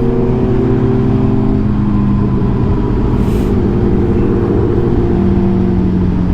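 Sportbike engine running at a steady cruising speed, heard on board the moving motorcycle over wind rumble, with a short hiss of wind about three seconds in.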